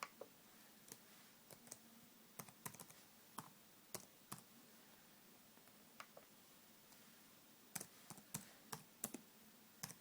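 Faint, irregular key presses on a Sony Vaio laptop keyboard as a password is typed in, scattered single taps and short quick runs of keystrokes.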